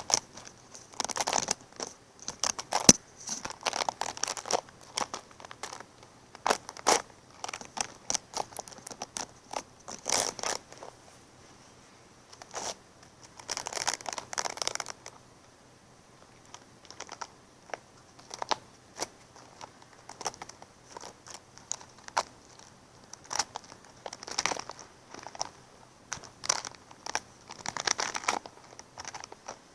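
Crinkling and rustling in irregular bursts, some lasting a second or more, with scattered sharp clicks and a quieter pause about halfway through.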